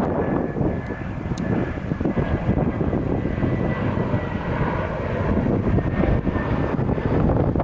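Jet airliner's engines running with a steady high whine as the plane passes, over heavy wind buffeting the microphone.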